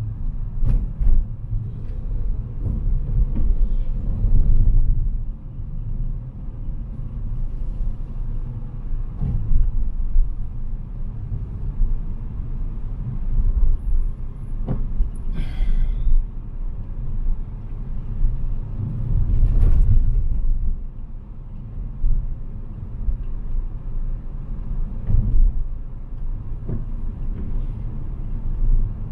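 Car driving on city streets: a steady low rumble of engine and road noise, with a few knocks from the road surface and a brief high squeal about halfway through.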